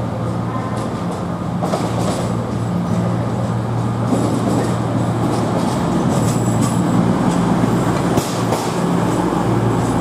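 CrossCountry Voyager diesel multiple unit approaching and running past close by, with its underfloor diesel engines humming steadily under the rush of the passing train. Its wheels click over the rail joints, and the sound grows a little louder about halfway through as the carriages sweep past.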